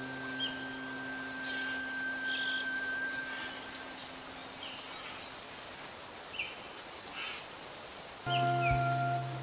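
Steady high-pitched insect chorus with a few faint short chirps over it. Soft background music holds sustained notes at first, drops out after a few seconds, and comes back with low notes near the end.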